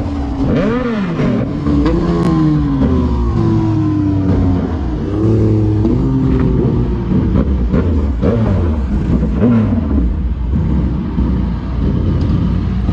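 Multi-cylinder sport motorcycle engines revving, their pitch repeatedly rising and falling, over a steady low engine hum.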